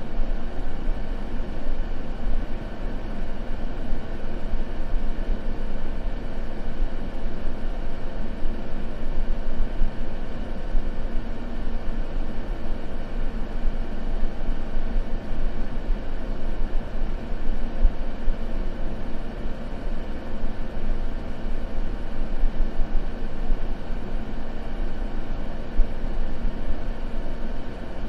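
Steady white-noise sleep track: an even, deep rumbling hiss with a faint constant hum in it, unchanging and without crackles or other events.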